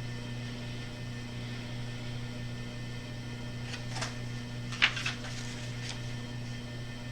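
Steady low electrical hum in a small room, with a handful of short clicks and rustles bunched together about four to six seconds in, the loudest a sharp click near five seconds, from handling things while looking something up.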